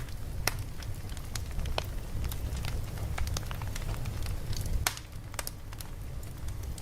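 Campfire crackling: irregular pops and snaps over a steady low rumble.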